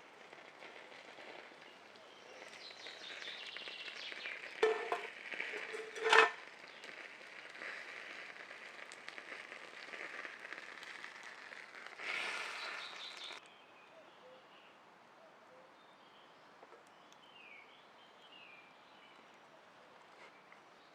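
Food sizzling and crackling over a campfire, with two sharp knocks about four and a half and six seconds in. The sizzling cuts off suddenly about two-thirds of the way through, leaving faint bird chirps.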